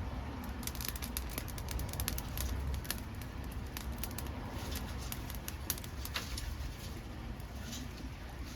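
Dead maki wood crackling and popping as it burns, with many sharp irregular pops over a low steady rumble.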